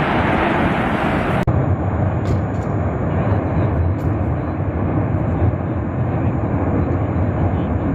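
Erupting volcano giving off a continuous loud roar, a steady low rumble with hiss. About a second and a half in, the sound changes abruptly and the higher hiss drops away.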